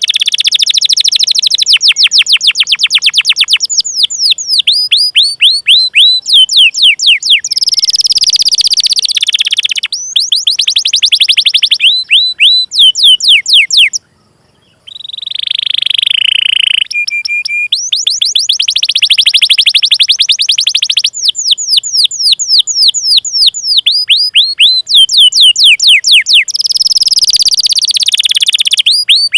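Domestic canary singing a long, loud song of rapid repeated 'cuit cuit' chirps, each sweeping down in pitch, mixed with fast rolling trills. The song breaks off briefly about halfway through.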